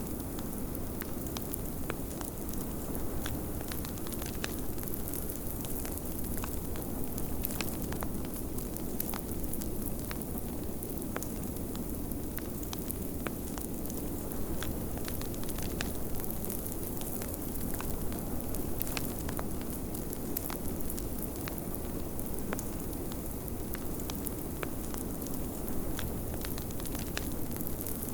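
Wood fire crackling in a fireplace, with many small sharp pops, over a steady low rush of snowstorm wind.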